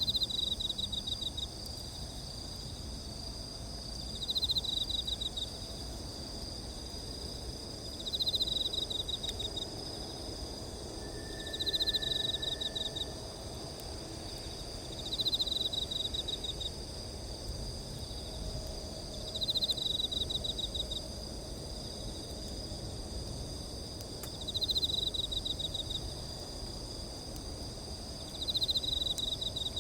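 Chorus of night insects: several steady high-pitched trills, with one insect's pulsed chirp train, each about a second and a half long, repeating roughly every four seconds.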